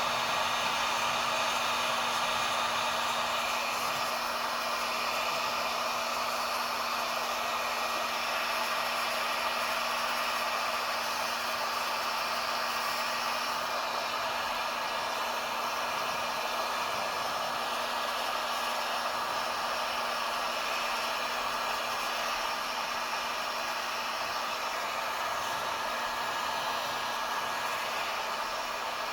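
Heat gun running steadily, its fan blowing a constant rush of air over a steady low hum.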